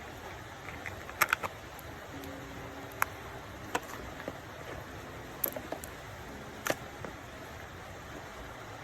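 Steady hiss of rain with a few sharp clicks and taps of small hard items being handled: a quick cluster about a second in, then single clicks every second or so.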